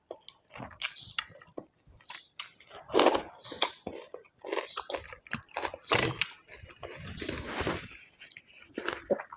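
Close-miked chewing and crunching of food, with irregular crisp clicks and crackles, loudest about three seconds and six seconds in.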